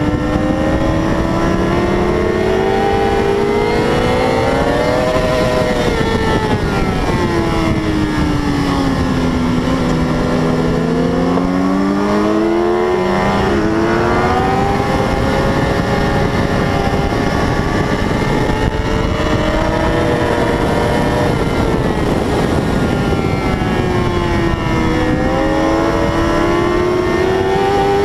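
A 600cc racing motorcycle's engine at high revs, its pitch climbing and falling as it runs through the gears, with a quick gear change about thirteen seconds in. A constant rush of wind noise runs beneath it.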